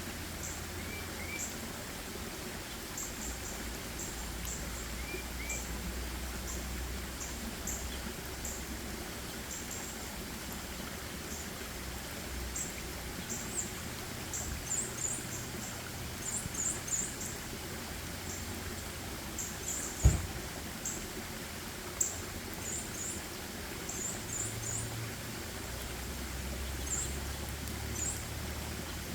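Forest ambience: small birds give many short, very high chirps over a steady hiss and a low rumble, with one sharp click about two-thirds of the way through.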